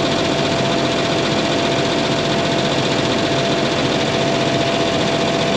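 An engine running steadily at constant speed, with a steady hum over it.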